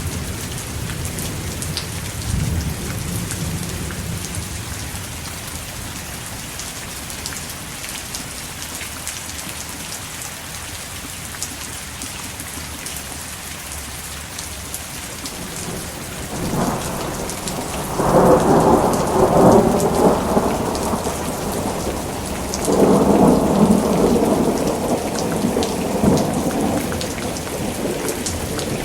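Thunderstorm: steady rain hissing down, with thunder rumbling low at first. In the second half come two louder rolls of thunder, each lasting several seconds.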